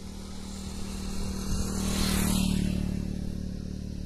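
Train running with a steady engine hum, swelling to its loudest about two seconds in and then easing off.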